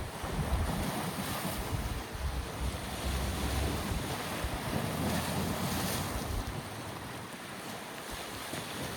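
Red Sea waves washing ashore in a steady rush, with wind buffeting the microphone in low rumbling gusts.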